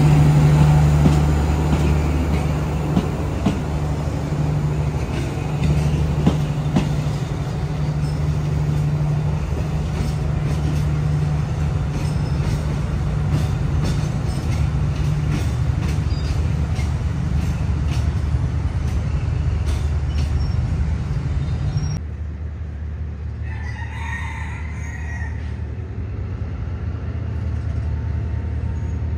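Passenger train cars rolling past over a steady low diesel hum, with repeated clacks of wheels over rail joints. About 22 s in the sound drops to a quieter steady engine hum, and a rooster crows once.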